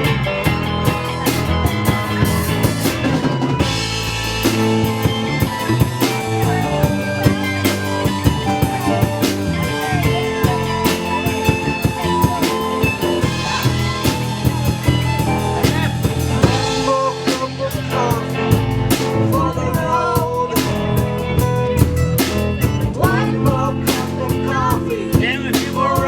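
Live band playing an instrumental passage in a bluesy style: a drum kit with rimshots keeps the beat under guitar and a wavering lead melody.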